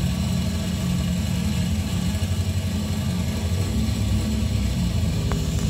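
Car engine running steadily, heard played back through loudspeakers from an engine-tuning video.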